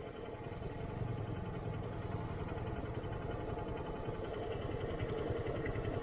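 Single-cylinder motorcycle engine running at low revs with an even, rapid firing beat, growing slightly louder.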